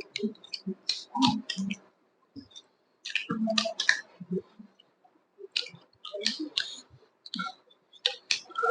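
Close-miked chewing and mouth smacking: wet clicks coming in bursts of a second or two, separated by short pauses.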